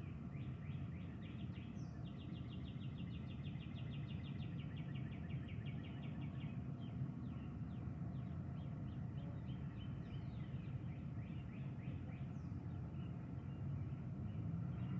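Songbirds singing, with fast trills of repeated short chirps and a few falling whistled notes, over a steady low background noise.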